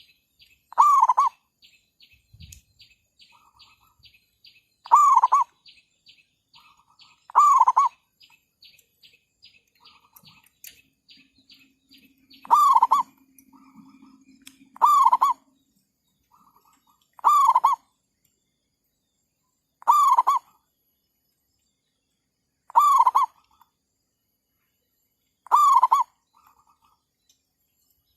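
Zebra dove (merbuk/perkutut) cooing, a short call repeated about every two and a half to three seconds, nine times.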